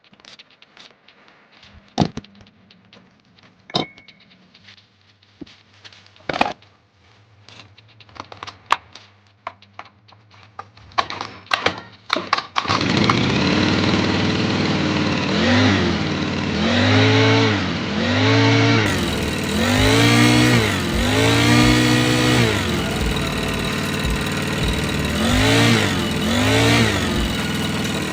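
Knocks and clicks of parts and tools being handled, then a loud motor starting about 12 seconds in and running at varying speed, its pitch rising and falling about every two seconds.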